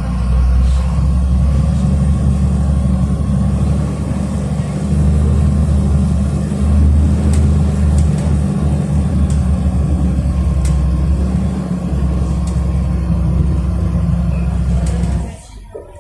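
City bus engine running hard under load, heard from inside the bus as a loud, steady deep rumble. It drops away suddenly near the end.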